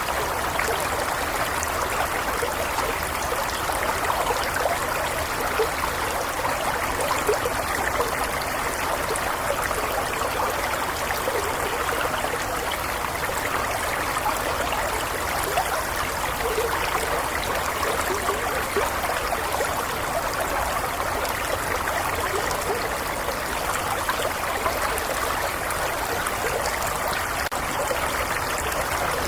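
Small stream flowing steadily over stones, a continuous babble of trickling and splashing water.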